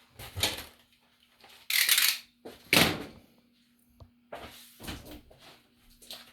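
Handling noises from moving a porcelain Department 56 village house and its small parts about: a few separate scrapes, knocks and a click, the loudest a sharp knock-scrape about three seconds in, over a faint steady hum.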